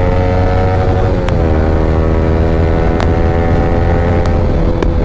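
Yamaha R15 V3's 155 cc single-cylinder engine through an Akrapovic aftermarket exhaust, running at steady riding revs. Its note drops about a second in and then holds, with a few sharp clicks along the way and a low rumble of wind and road underneath.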